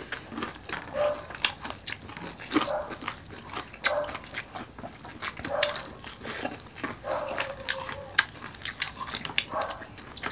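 Close-up eating sounds: crisp crunching and wet chewing of fried crispy pork belly (lechon kawali) and rice, with sharp mouth clicks and short squeaky notes about every second or so.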